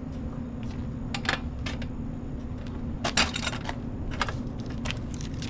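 Scattered light clinks and clatters of soda bottles and cases being handled, in short clusters, over a steady low hum.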